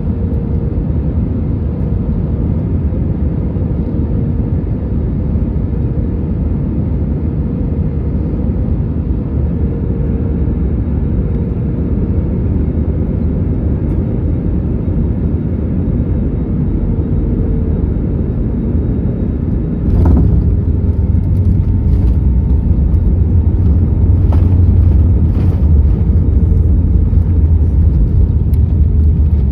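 Airbus A321neo cabin noise heard from a window seat, with its Pratt & Whitney PW1100G geared turbofans running steadily with a faint wavering hum. About two-thirds of the way through, the noise jumps suddenly into a louder, deeper rumble with scattered rattles and clicks: the landing gear touching down and rolling along the runway.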